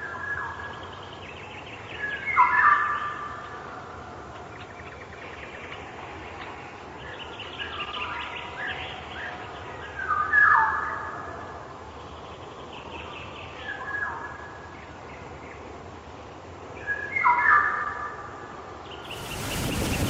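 A songbird singing the same short phrase, ending in a falling note, about five times a few seconds apart, with fainter chirps in between. Near the end a loud, even rushing noise suddenly takes over.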